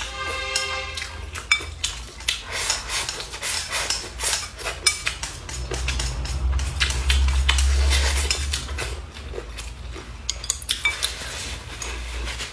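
Chopsticks and tableware clicking and clinking against bowls and plates while eating, many small irregular clicks. A short ringing tone sounds in the first second.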